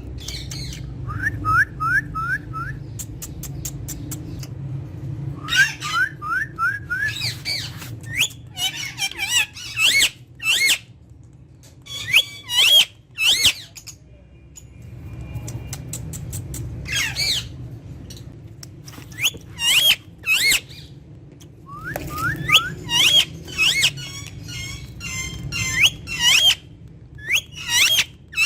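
Indian ringneck parakeet calling in bursts: runs of three to five quick rising chirps, and short whistled and squawking calls, with pauses of a second or two between them.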